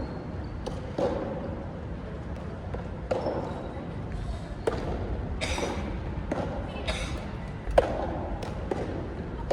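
Racket-and-ball impacts of a doubles rally, about eight sharp knocks at uneven intervals, each followed by a short ringing.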